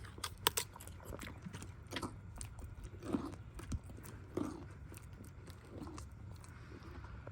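Donkey chewing a rice cracker: irregular crisp crunches, loudest and closest together in the first second, then more spread out.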